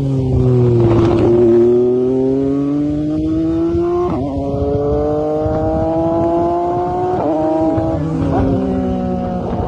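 Motorbike engine running under load, its pitch climbing slowly and breaking suddenly several times: about a second in, about four seconds in, and twice near the end.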